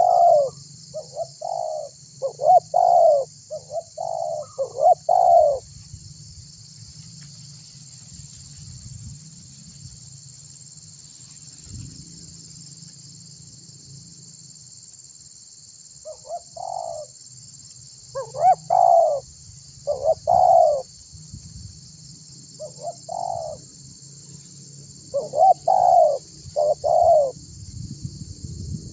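Spotted dove (tekukur) cooing vigorously in phrases of short, hollow notes. It calls for about the first five seconds, goes quiet for roughly ten seconds, then starts again. A steady high-pitched hiss runs underneath.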